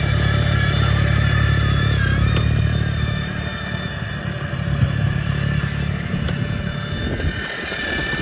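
Engine running steadily: a heavy low rumble with a thin high whine over it, the rumble easing off after about three seconds.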